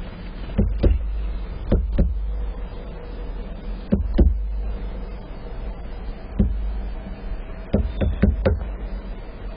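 Irregular sharp knocks and taps, some in quick pairs and a run of four near the end, over a steady low rumble.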